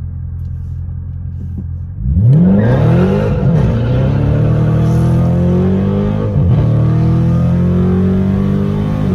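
Dodge Charger's Hemi V8 idling for about two seconds, then pulling away hard from a stop. The engine note climbs, drops back at two upshifts, and climbs again.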